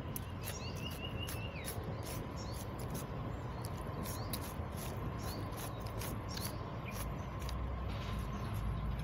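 Birds chirping: a short rapid trill near the start and scattered brief chirps, over a steady low background noise, with many sharp high clicks throughout.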